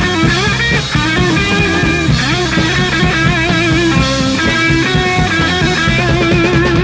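Late-1960s psychedelic rock recording with guitar, playing continuously at full level, with wavering sustained notes over a steady bass and drum backing.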